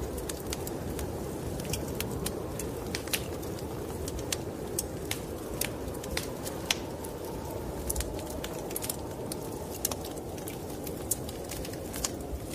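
Wood fire in a fireplace crackling, with irregular sharp pops and snaps, over a steady low rushing noise of snowstorm wind.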